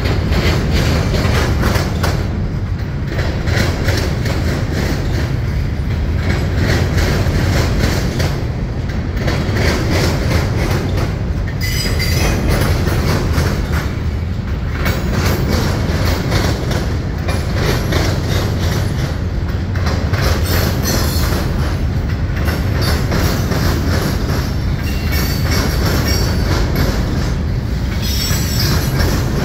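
Freight cars of a Norfolk Southern manifest train rolling past close by: a steady loud rumble with wheels clacking over the rail joints and diamond crossing. Brief high wheel squeals come about 12 seconds in and again near the end.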